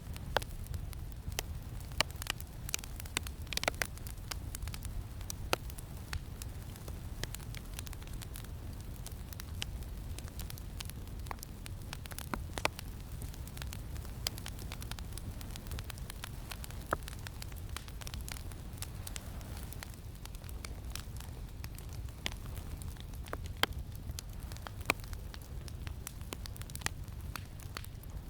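Campfire crackling, with irregular sharp pops and snaps over a steady low rumble of wind.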